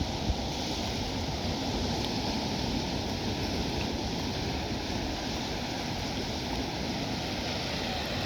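Steady rush of sea water and wind, with one brief thump just after the start.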